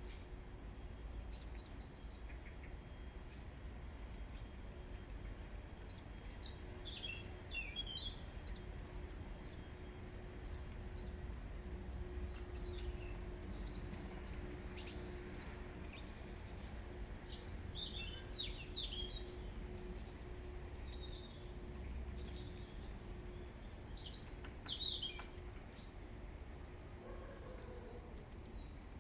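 Small garden birds chirping and calling in short bursts of quick, high, falling notes every few seconds, over a faint steady hum and low background rumble.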